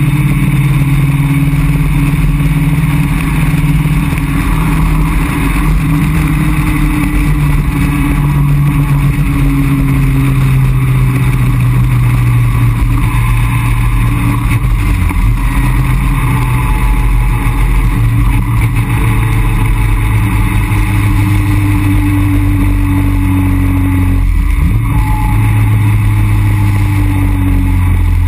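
Caterham Roadsport 175's four-cylinder engine running steadily while the open two-seater cruises, with wind rushing through the open cockpit. The engine note drifts slowly up and down and dips briefly twice, about halfway and near the end.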